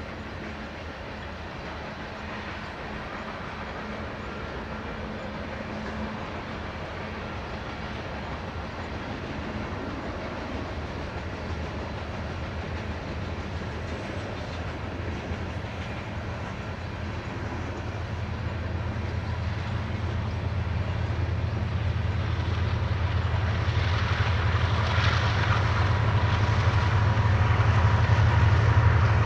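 Freight train rolling past with a continuous rumble of wheels on rail. In the second half a deep diesel locomotive engine rumble builds steadily louder, and a steady whine joins it near the end.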